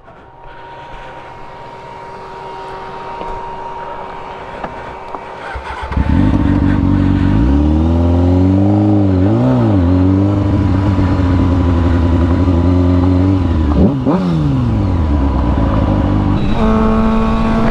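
Motorcycle engine heard from the rider's position: a rising rush of road and wind noise for the first six seconds, then the engine comes in loud and accelerates, its pitch climbing and dropping through gear changes, with a brief dip about fourteen seconds in before it runs steadily.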